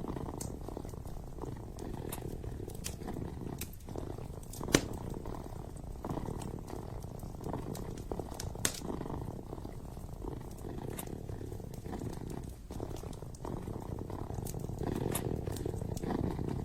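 Kitten purring steadily and close up, with the scattered crackles and pops of a wood fire in a fireplace; the sharpest pop comes nearly five seconds in.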